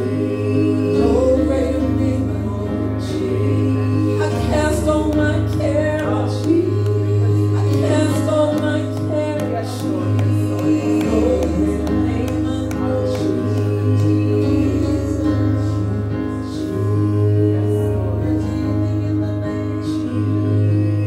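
Church praise team singing a gospel song with live band accompaniment, over a held bass line that changes note every second or two.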